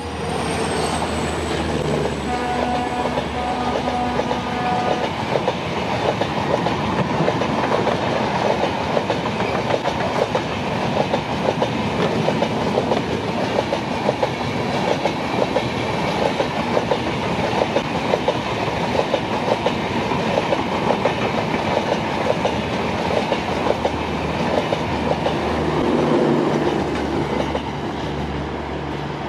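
An EMD WDP4-series diesel locomotive passes at speed, followed by a long rake of coaches clattering steadily over the rail joints in a fast run of clicks. The sound eases off near the end as the last coaches go by.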